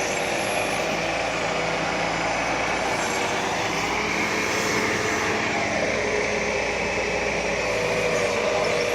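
Diesel engine of an ACE AX 130 backhoe loader running steadily, its pitch dipping briefly about halfway through and then picking up again.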